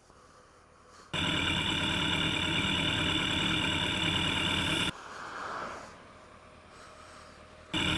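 Motorcycle engine running steadily at road speed. It starts abruptly about a second in and cuts off just before the halfway mark, then comes back just as suddenly near the end. Between these, a much quieter stretch with one brief swell.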